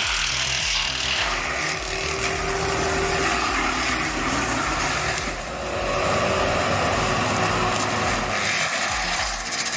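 A heavy machine's engine running steadily, its pitch rising between about five and seven seconds in.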